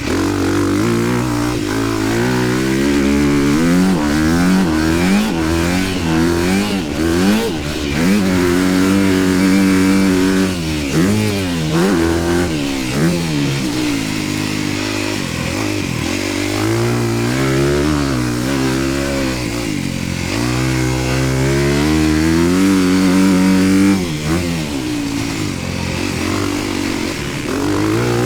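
Honda dirt bike engine being ridden hard, revving up and down again and again as the rider accelerates, shifts and backs off around the track.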